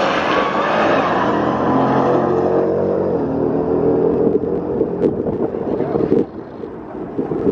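Cars in a quarter-mile drag race accelerating hard, engine pitch rising through the gears for the first couple of seconds, then a steady high engine note that falls away about six seconds in.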